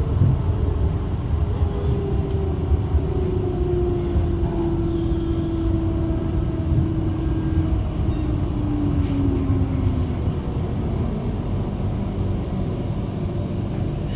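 Inside a Flexity low-floor tram: the electric traction drive whines in a slowly falling pitch for about ten seconds as the tram slows, over a steady low rumble from the running gear.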